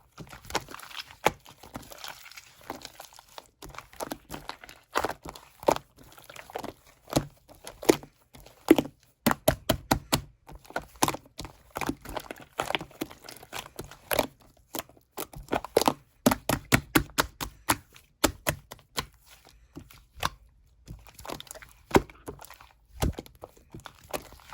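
Close-miked crackling, tapping and tearing sounds, irregular and sharp, of an Earth jelly (planet gummy candy) being handled and eaten.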